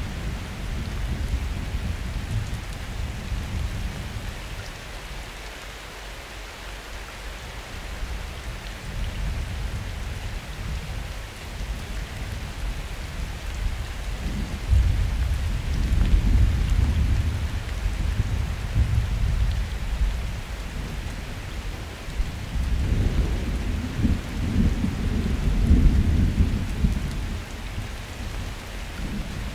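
Summer thunderstorm: steady rain hiss with distant thunder rumbling low. A rumble fades over the first few seconds, then the thunder rolls in again about halfway through and once more near the end.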